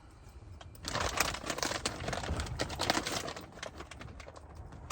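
Crinkling and rustling of food packaging being handled, with many small clicks and knocks of cookware, starting about a second in; a single sharp click comes at the very end.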